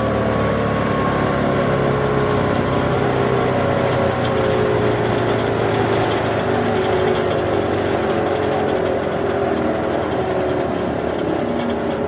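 The heavy flywheel of a PTO-driven wood chipper coasting down with the tractor shut off, a steady mechanical whir whose tones slowly fall in pitch as it loses speed. It spins on freely for a long while, which the owner takes as sounding pretty good.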